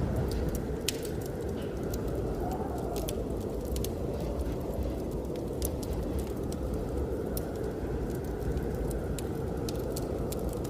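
Wood fire crackling, with frequent sharp, irregular pops, over steady blizzard wind.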